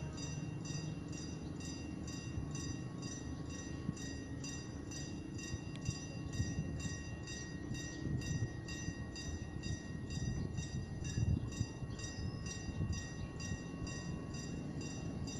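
Passenger train rolling slowly, a low rumble with occasional knocks from the wheels and couplings. Over it, a level-crossing bell rings steadily, about three strokes a second.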